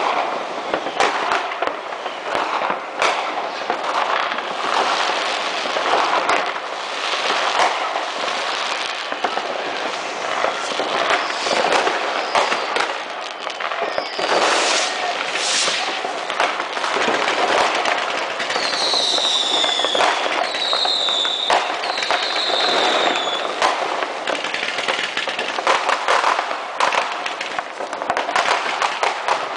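New Year's Eve fireworks and firecrackers going off all over a city, a dense, continuous crackle of many overlapping bangs and pops. A little past the middle, three falling whistles from whistling fireworks sound one after another.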